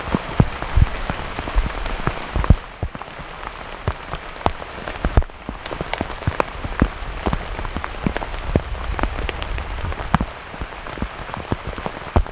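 Heavy rain falling steadily, with irregular sharp taps of big drops landing close by.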